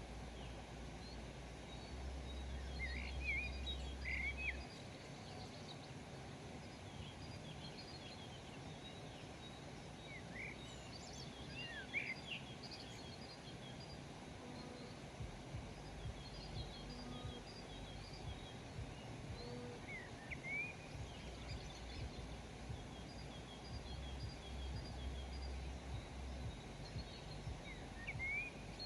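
Several wild birds chirping and calling sporadically over a faint, steady outdoor ambience, with short rising notes and quick repeated high chips. A low rumble comes in twice, briefly near the start and again in the second half.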